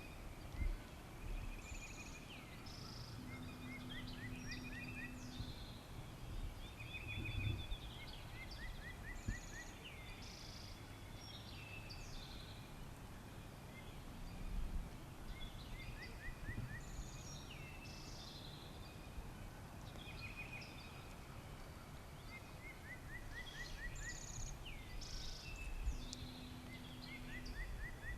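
Songbirds singing in a spring woodland chorus, with repeated chirps, downward glides and short trills, over scattered low thumps. A low steady hum comes twice, for about two seconds each time.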